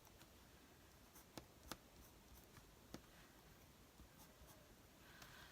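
Near silence with faint scratching of a pen on paper and a few light ticks, as the paper is marked.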